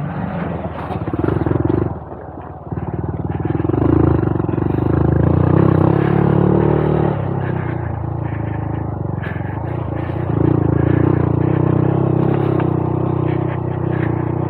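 Honda Monkey 125's single-cylinder four-stroke engine running as the bike is ridden along the trail; the engine drops off briefly about two seconds in, then pulls steadily again.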